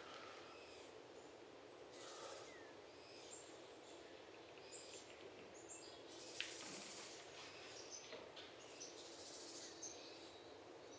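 Faint birdsong: scattered short chirps and calls over a low, steady background hiss, with a single sharp click about six seconds in.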